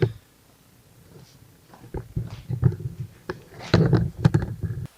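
Irregular metallic knocks and clicks of hand tools and engine parts being handled, starting with a sharp click and then a cluster of knocks about two to five seconds in.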